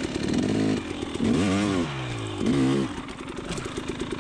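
A KTM 300 XC TPI's single-cylinder two-stroke engine running, revved up and back down twice in quick succession, with a stuttering two-stroke beat between the revs.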